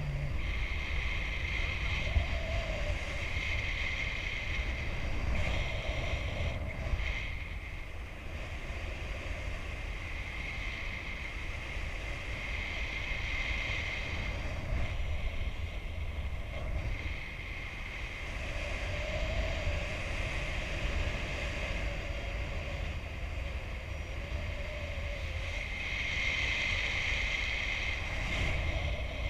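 Wind rushing over the microphone in paraglider flight: a steady low rumble of air buffeting, with a faint wavering whistle that comes and goes.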